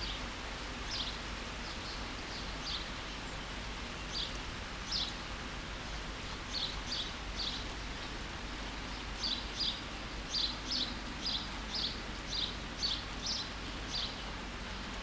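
Steady rain falling, with a small bird repeating short, high chirps over it, scattered at first and coming quickly one after another in the second half.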